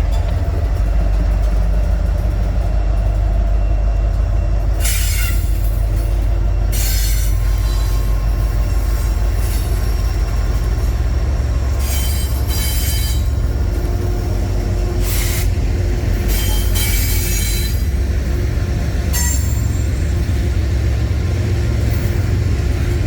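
Freight train cars rolling past with a steady heavy rumble, the wheels squealing against the rails in several separate bursts.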